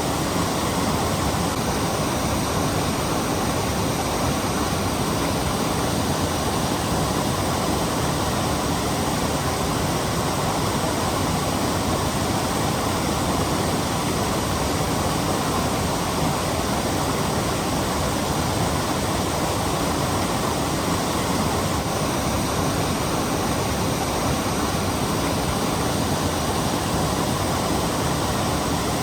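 Steady, unbroken rush of falling water from a waterfall on a mountain stream.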